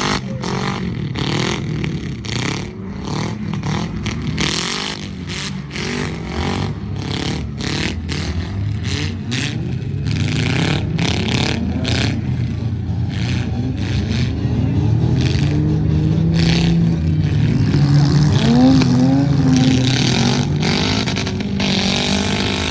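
Demolition derby trucks' engines revving up and down, several at once. Repeated sharp knocks and bangs run through the first half, and an engine revs higher and harder near the end.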